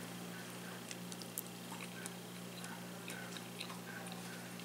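Faint chewing of soft green beans with no crunch: scattered small mouth clicks over a steady low hum.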